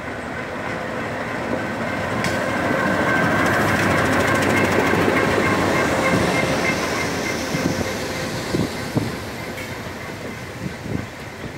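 Alco RSD-39 diesel locomotive passing close by and its passenger coaches rolling past as the train slows into the station. The locomotive's running noise swells to its loudest a few seconds in, then eases as the coaches go by with wheels clacking over the rail joints.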